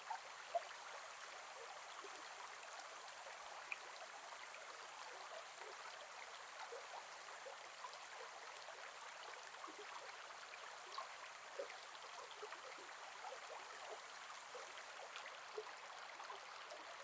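A gentle forest river flowing: a steady, soft rush of water with many small plinks and gurgles scattered through it.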